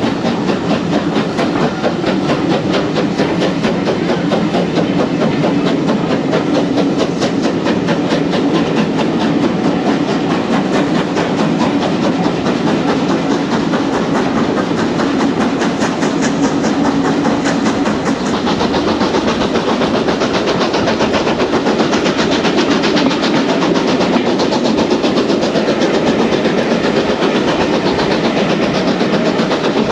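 Heritage-railway passenger train running along the line, with a steady rumble of the carriage and wheels clattering over the track. About two-thirds of the way through the sound turns brighter and hissier.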